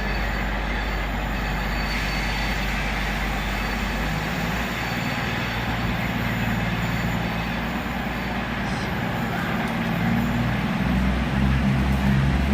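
Heritage mainline diesel locomotive's engine running, its note shifting about four seconds in and growing louder near the end as it works harder.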